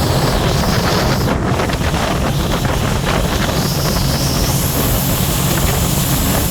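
Scarab 165 ID jet boat's three-cylinder Rotax 1503 4-TEC engine running steadily while underway, with water rushing past and wind buffeting the microphone.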